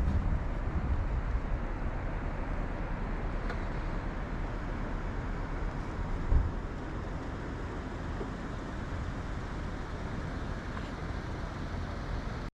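Steady rushing roar of the Yellowstone River and its falls far below the canyon rim, with a single short low thump about six seconds in.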